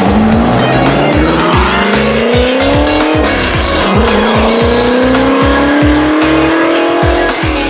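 Race car engine sound accelerating hard through the gears, its pitch climbing and dropping at an upshift about three seconds in and again near the end, over background music with a steady beat.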